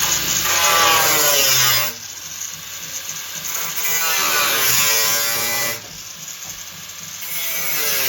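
Handheld power tool working on the car body, run in three bursts of about two seconds each, with a shifting whine that drops in pitch as each burst stops.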